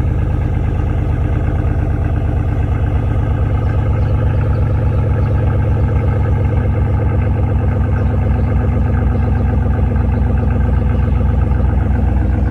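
2006 Pontiac Grand Prix GXP's LS4 V8 running steadily through a straight-piped exhaust, a loud low drone that grows a little louder in the second half.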